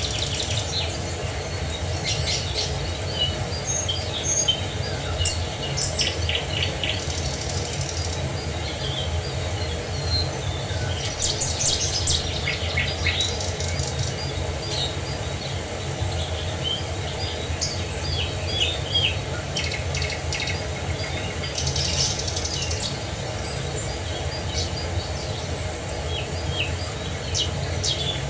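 Several songbirds chirping and trilling in short, scattered phrases over the steady rush of falling water.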